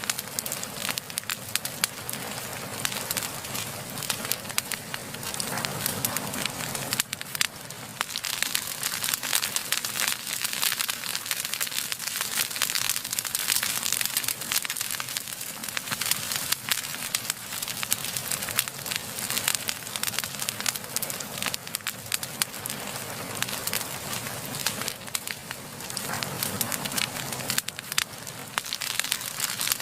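Wood fire burning with dense, irregular crackling and popping over a steady rushing of flames.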